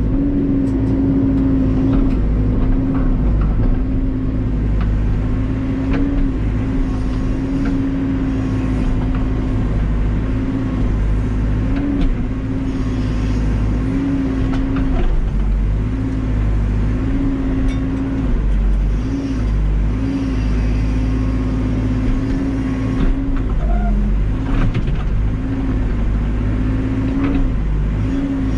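Cat backhoe's diesel engine running steadily at working speed, its pitch dipping briefly again and again as it takes load, with a few faint knocks.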